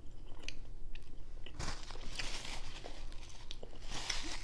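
Close-miked chewing of a bite of fried cod fish sandwich on a soft bun: irregular wet mouth clicks and smacks, with a couple of longer hissy stretches.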